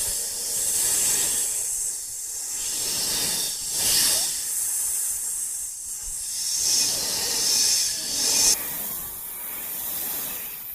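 A hissing noise that swells and eases several times, strongest in its high part, which drops away suddenly about eight and a half seconds in.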